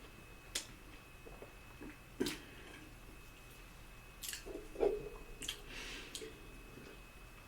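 Close-miked eating sounds: chewing and wet mouth smacks, with several sharp clicks a second or two apart. A faint steady high whine runs underneath.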